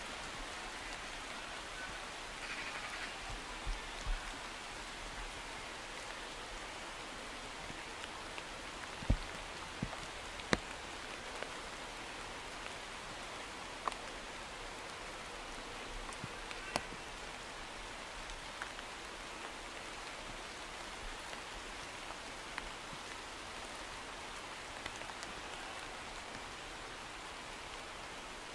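Steady rain falling, with a few sharp taps of single drops scattered through it.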